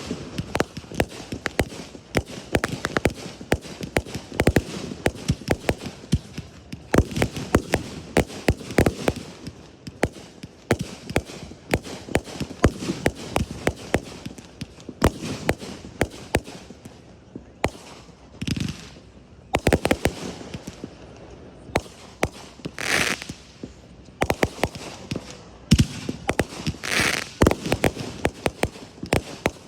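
Fireworks going off: a dense run of crackling pops and bangs, several a second, with a few short hissing bursts in the later part.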